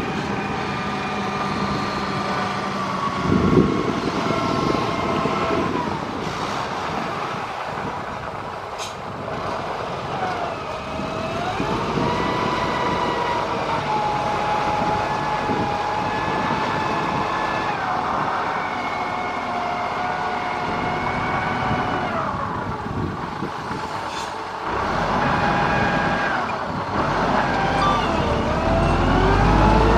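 Motor grader's diesel engine working under load, its pitch dropping and climbing again several times as the revs change, with a clunk about three and a half seconds in.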